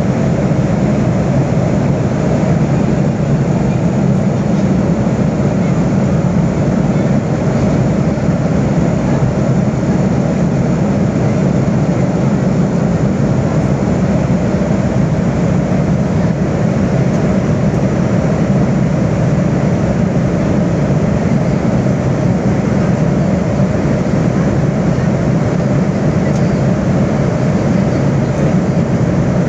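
Steady engine and airflow noise inside a passenger airliner's cabin in flight, an even, unchanging rumble.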